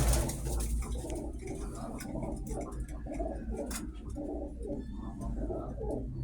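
Several domestic pigeons cooing, their coos overlapping and repeating without pause.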